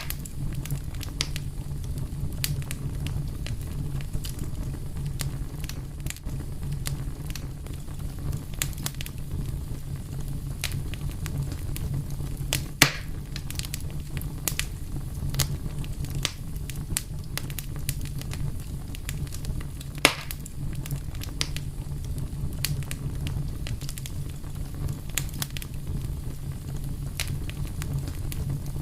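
Wood fire burning with a steady low rumble and frequent irregular crackles and snaps, two louder pops about halfway through and again some seven seconds later.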